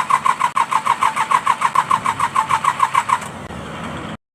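Starter motor cranking a Mitsubishi K3E three-cylinder diesel in rhythmic pulses, about six a second, without it firing up; the cranking stops about three seconds in, leaving a steady noise. The engine is hard-starting, a fault the mechanic puts down to worn pistons and rings.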